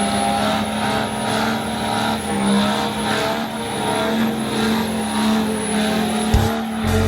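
Semi-truck engines running with a steady, even drone, joined by low thumps near the end.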